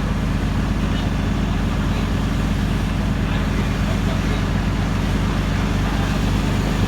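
Heavy truck engine idling steadily, a low, even drone with a fast pulse.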